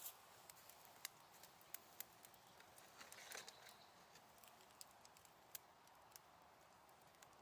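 Faint wood fire crackling on a small fire stand: about ten irregular sharp pops, with a brief soft hiss about three seconds in.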